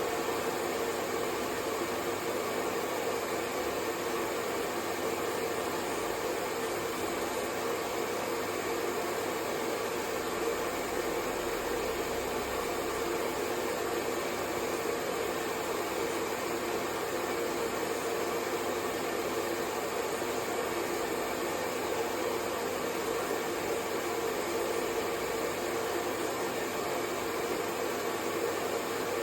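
Hair dryer running steadily: an even rush of blown air over a faint motor hum, with no change in speed or pitch.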